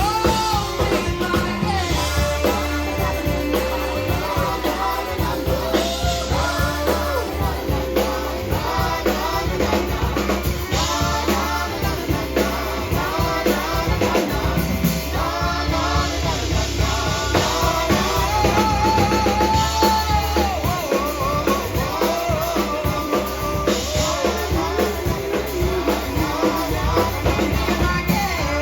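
Live band music: a lead singer over drum kit and guitar, with a steady low bass line and an even beat.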